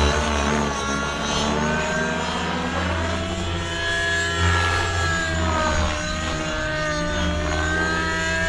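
XLPower Nimbus 550 Nitro RC helicopter in flight, its 50-class glow engine with tuned-pipe muffler running on the throttle curve alone, governor off, together with the rotor noise. The engine pitch falls and rises twice as the load changes.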